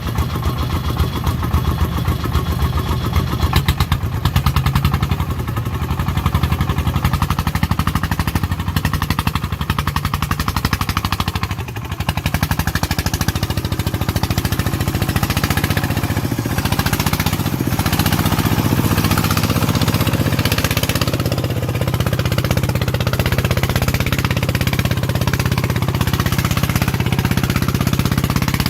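Farm vehicle's diesel engine running, a steady rapid chugging, with a brief dip in level about twelve seconds in.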